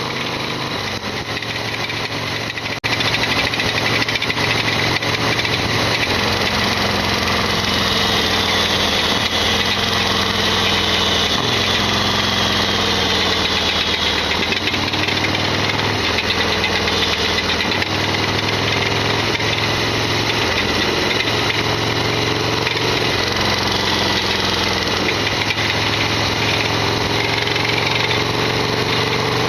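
Harley-Davidson Sportster XL1200R air-cooled V-twin running while riding, engine speed rising and falling, with a loud rattling clatter that the owner counts as an abnormal noise. It gets suddenly louder about three seconds in.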